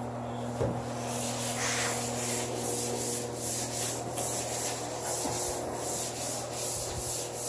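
Wet sandpaper rubbing back and forth by hand over primer on a car body panel, in even strokes about two to three a second starting about a second and a half in, over a steady low hum.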